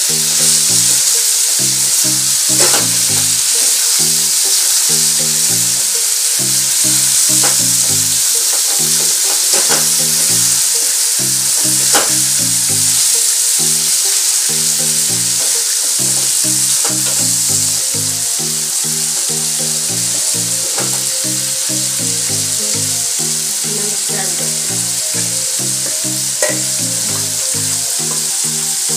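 Eggplant and onion pieces sizzling in hot oil in a steel kadhai as a spatula stirs them. The spatula knocks against the pan with a sharp click now and then.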